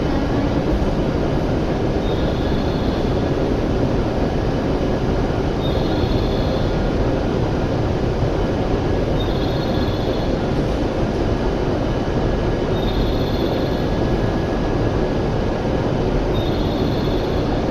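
W7 series Shinkansen running at speed, heard from inside the car as a steady, loud rumble of running noise. A short high tone repeats faintly about every three and a half seconds.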